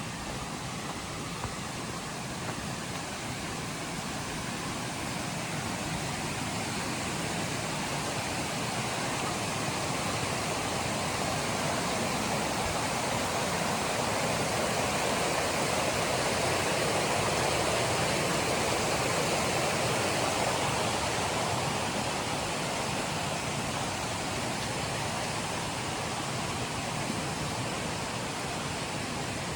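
Rushing river water: a steady rush that swells louder around the middle and eases again toward the end.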